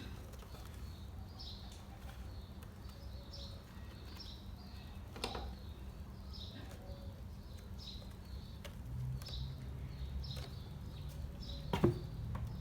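Small birds chirping in short, repeated high notes, about one a second, over a low background rumble. A steady low hum comes in about nine seconds in, and there are two sharp clicks.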